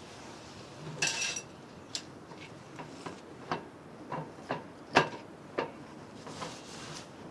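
Kitchenware being handled: a short scraping rustle, then a string of irregular light clinks and knocks, the loudest about five seconds in.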